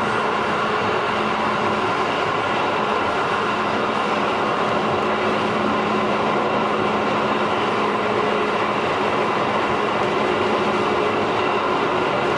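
JR 211 series electric train running at a steady speed, heard from inside the passenger car: continuous rolling and track noise with a faint steady hum underneath.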